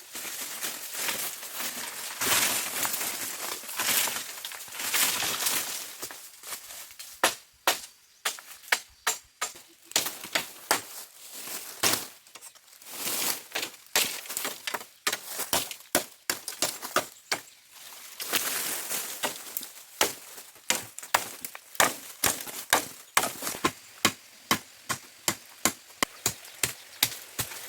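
Bamboo being chopped: many sharp, hollow strikes, at times about two a second, between stretches of rustling leaves.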